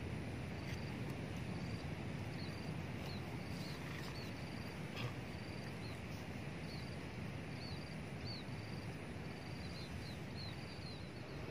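A small bird calling on and on: short high chirps and quick down-slurred notes, about two a second, over a steady low background noise.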